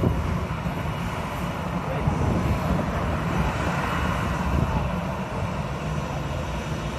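Jet airliner engine noise, a steady heavy rumble, with strong wind buffeting the microphone.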